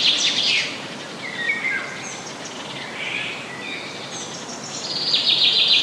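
Forest ambience: birds chirping over a steady background hiss, with a rapid chattering trill at the start and again near the end, and shorter chirps between.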